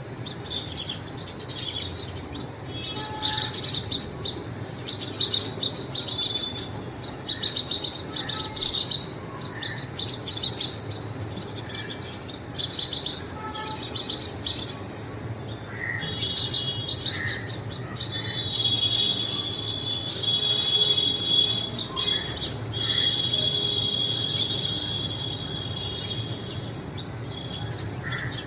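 Birds chirping in a dense, overlapping chorus of quick high calls. From about two-thirds of the way through, a steadier high trill runs beneath the chirps.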